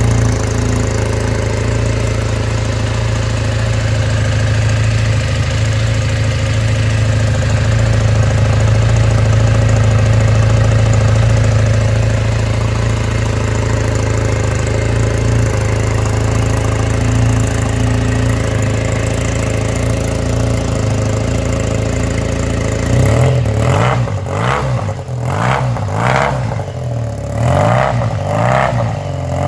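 Triumph Bonneville's 790 cc air-cooled parallel-twin engine, breathing through an old Triumph Tiger silencer, idling steadily, then blipped several times near the end, the exhaust note rising and falling with each blip.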